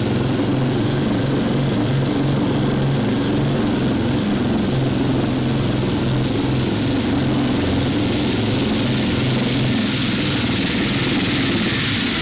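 A motor running steadily with an even low drone.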